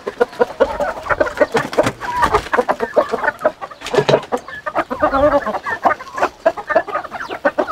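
A flock of Hint chickens clucking busily, many short calls overlapping, with a thump about four seconds in.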